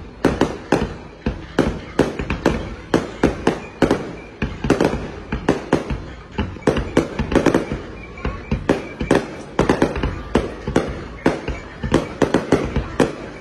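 Aerial firework shells bursting in rapid, irregular succession, about two to three sharp bangs a second, in a continuous fireworks barrage.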